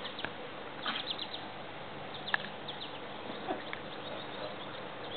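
Birds chirping in short, high calls over a steady background hiss, with one sharper squeak a little over two seconds in.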